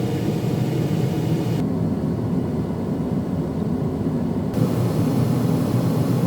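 Vehicle engine running, heard from inside the cab as a steady low rumble, with a fainter hiss above it that drops away for about three seconds in the middle.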